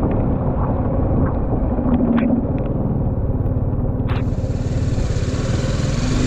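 Motorcycle being ridden: a steady low rumble of engine and road noise, with a few sharp ticks around two and four seconds in.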